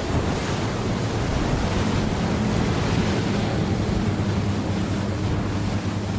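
Motorboat engine running with a steady low drone, over the rush of water and wind.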